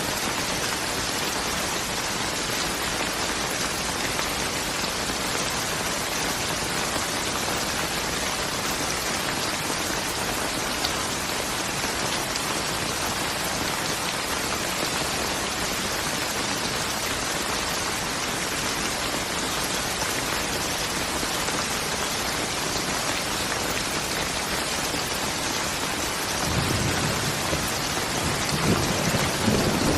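Steady, even rain. Near the end, a low rumble of thunder starts and grows louder.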